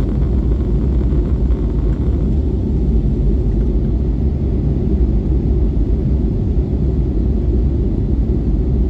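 Steady low rumble of a passenger jet airliner, even and unbroken throughout, with its upper hiss thinning slightly about two seconds in.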